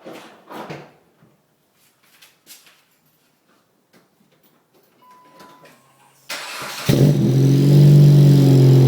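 Dodge Avenger starting through its new exhaust: a faint steady tone, then the starter cranks briefly about six seconds in and the engine catches and settles into a loud, steady idle.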